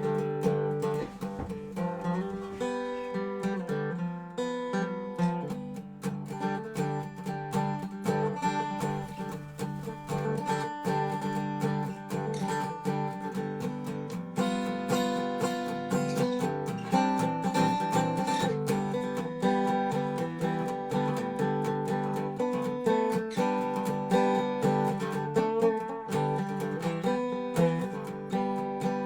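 Dobro resonator guitar played in a blues jam: a steady run of plucked notes.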